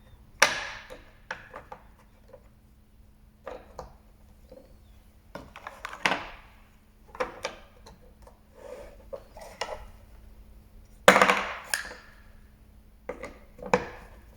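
Hard toy pieces being handled and fitted together, with irregular knocks and clacks. The loudest come about half a second in and about 11 seconds in.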